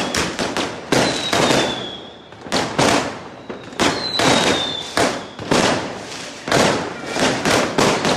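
Fireworks going off in rapid, dense bangs and crackles, one burst after another with hardly a gap. High whistles that fall slightly in pitch sound about a second in and again about four seconds in.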